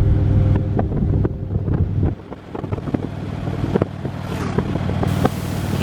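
Motorcycle engine running at road speed, its steady low drone dipping briefly about two seconds in, with wind buffeting the microphone in irregular thumps.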